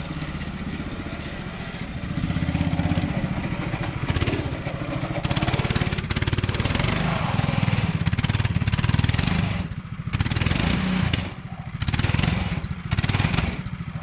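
Homemade motorcycle's engine running and being revved. Near the end the throttle is closed and opened again three times in quick blips.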